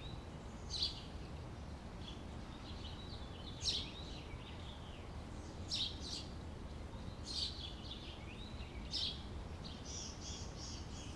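Small songbirds chirping and twittering: sharp high chirps every second or two with softer warbling between, then a quick even run of repeated high notes near the end, over a low steady background noise.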